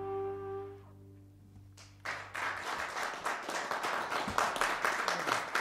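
The jazz combo's last held chord rings out and fades away, then an audience bursts into applause about two seconds in and keeps clapping.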